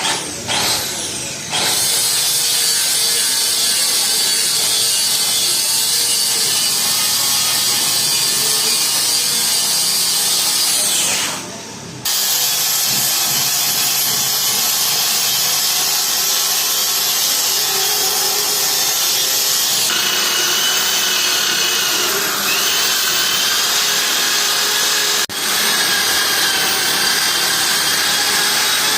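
Handheld electric power tool running steadily under load. It spins up about a second and a half in, winds down and stops briefly around eleven seconds, then starts again. There is a sharp click near the end.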